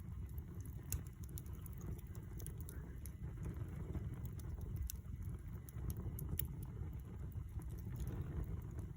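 Wood campfire burning: a steady low rumble with scattered sharp crackles and pops, a few of them standing out.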